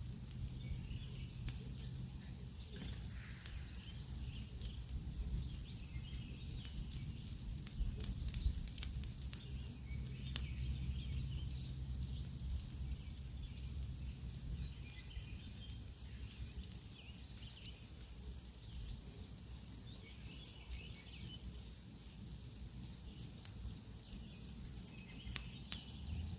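Campfire burning: a low steady rumble with scattered sharp crackles and pops. Birds chirp in the background.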